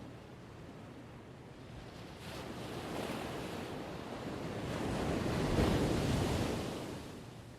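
Ocean waves breaking on a shore. One wave's wash builds from about two seconds in, is loudest near six seconds, and falls away near the end, with some wind noise underneath.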